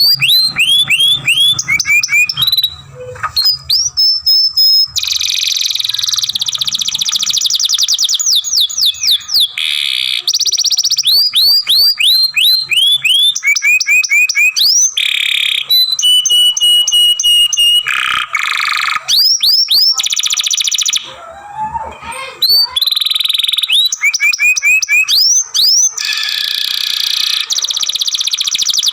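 Domestic canary singing a long, continuous song: fast trills of repeated falling whistled notes alternating with buzzy rolls, each pattern switching to the next every second or two, with short breaks about three seconds in and again about twenty-one seconds in.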